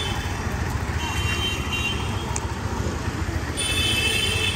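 Street traffic noise with a steady low rumble. A high-pitched vehicle horn sounds briefly about a second in and again near the end.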